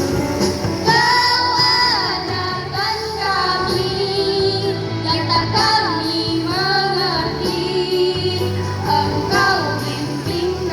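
Girls' choir singing a melody together, over a steady low musical accompaniment.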